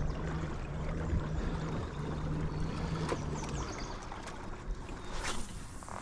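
Kayak sitting on moving river water: a steady wash of water noise around the hull, with a low steady hum that stops about three and a half seconds in and a short scrape near the end.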